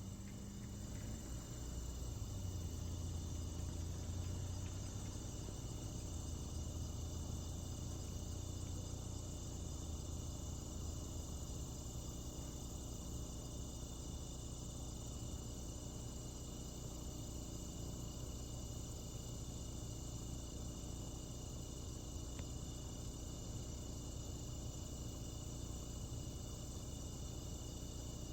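A steady chorus of insects chirring, with a faint low rumble during the first ten seconds or so.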